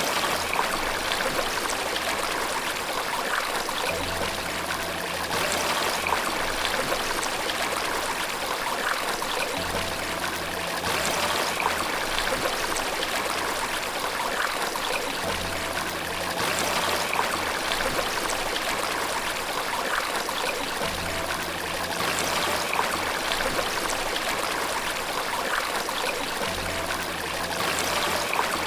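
Steady rush of flowing water, as from a stream or small waterfall, with faint low tones coming back about every five and a half seconds.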